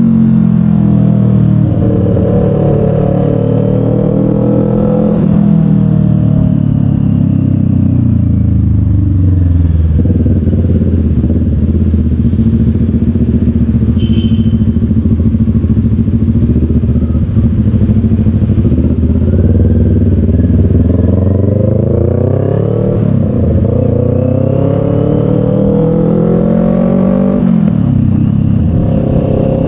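Motorcycle engine running under way, heard from the rider's seat: revs climb and drop with acceleration and gear changes, holding low and steady through slow traffic in the middle. A brief high beep sounds about halfway through.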